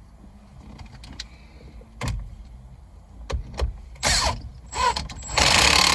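Hands and tools at work on a car's steering column: a few sharp clicks, then bursts of scraping, rustling noise. The loudest burst, about a second long, comes near the end.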